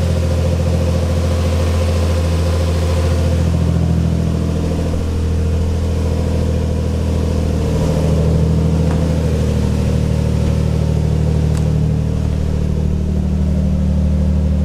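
Twin-turbo Infiniti G35's 3.5-litre V6 idling steadily just after being started, running on a freshly wired Walbro 485 fuel pump relay that worked on the first try.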